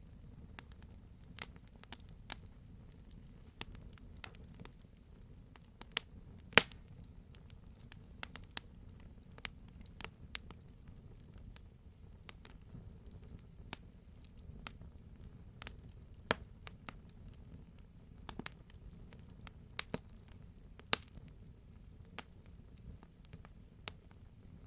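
Wood fire crackling, with a low steady rumble beneath and irregular sharp pops, a few louder snaps standing out.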